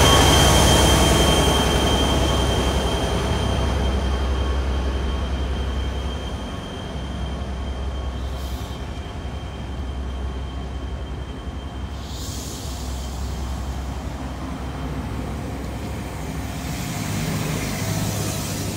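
Class 47 diesel locomotive passing close by, its engine sound and a steady high whine fading over the first few seconds, followed by its rake of passenger coaches rolling past on the rails.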